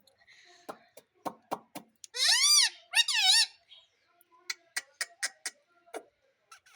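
Indian ringneck parrot giving two loud, wavering calls, about two and three seconds in, with a scatter of short clicks before and after.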